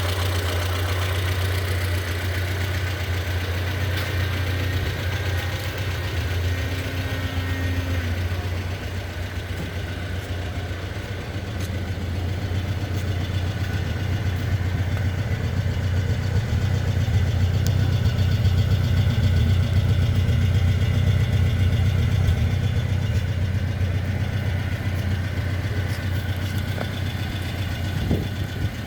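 Peugeot 404 Pininfarina's four-cylinder engine idling steadily, with a deep even hum throughout.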